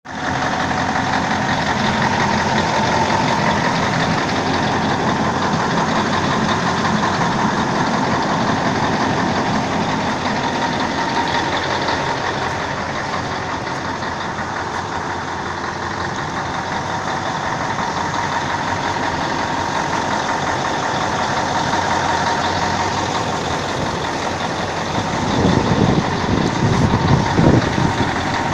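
MAZ-6422A8 truck's YaMZ-238 V8 diesel engine running steadily at idle, getting louder and uneven for a few seconds near the end.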